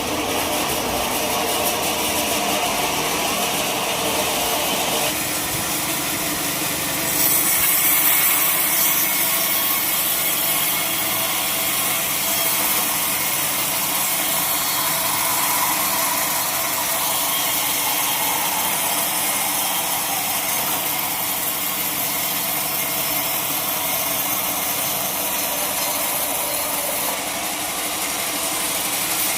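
Sawmill saw cutting through a log, a steady high-pitched sawing noise that grows louder and brighter about seven seconds in.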